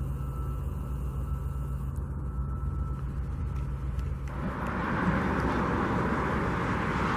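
Outdoor engine noise of vehicles and machinery around a construction site: a steady low engine hum at first, then from about four seconds in a louder, even rushing sound.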